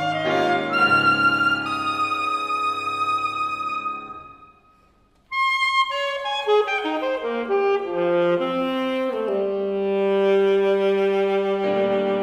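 Alto saxophone and piano playing a classical sonata: sustained notes fade out to a brief silence about four seconds in, then the music comes back in sharply a second later with a run of stepping notes.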